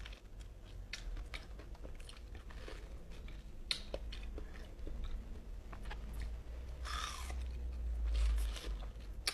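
A person chewing ripe mango close to the microphone: wet mouth sounds and many short clicks of biting and chewing, with a longer wet smear about seven seconds in.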